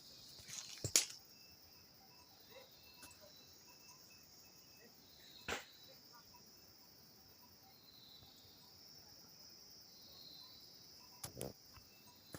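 Steady high-pitched drone of insects, with a few sharp clicks or knocks about a second in, midway and near the end.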